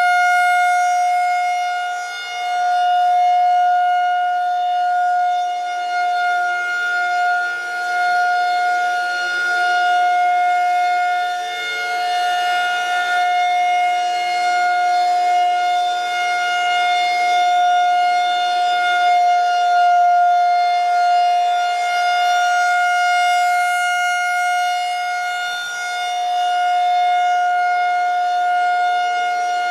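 Federal Signal 2001-130 DC battery-powered rotating electromechanical siren sounding its steady alert tone: one held pitch that grows louder and fainter every few seconds as the rotating head sweeps past.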